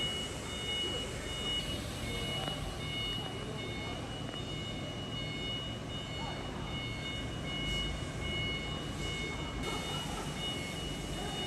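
Vegetable processing line machinery running with a steady low hum, under a repeating high-pitched beeping tone.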